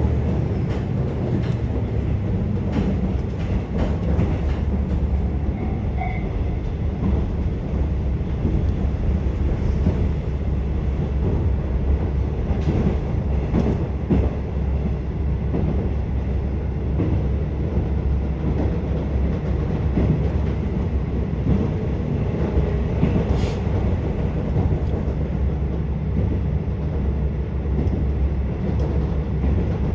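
KiHa 47 diesel railcar running along the line, heard from inside the passenger car: a steady drone of the diesel engine and rumble of the wheels on the track, with scattered short clicks.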